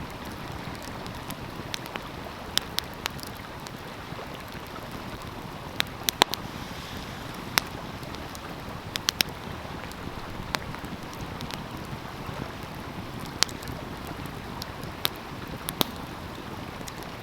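Wood fire crackling, with irregular sharp pops and snaps, over the steady rush of a flowing stream.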